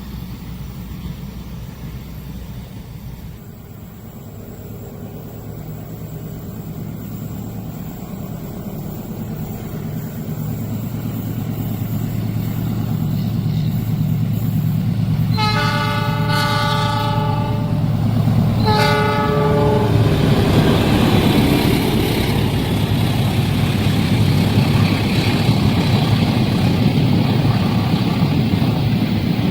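Diesel locomotive approaching with its engine hum growing louder, sounding two horn blasts, the first longer, about a third of the way through the second half. Then the loud steady noise of the train's wheels and wagons passing at speed.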